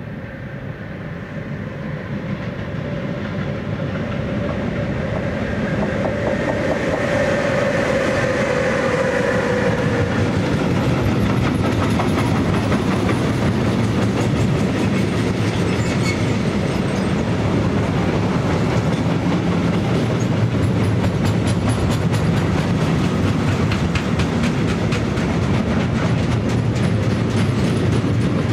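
Electric train approaching and passing close by. A whine falls in pitch as the locomotive goes past, then the rumble and rhythmic clickety-clack of the wheels carries on steadily as the cars roll by.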